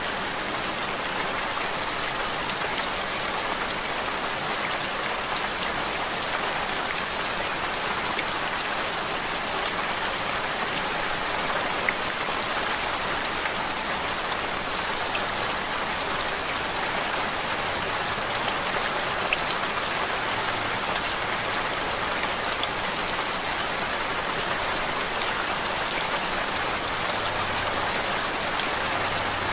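Steady rain as a continuous ambient noise track: an even hiss with scattered small drop ticks, unchanging throughout.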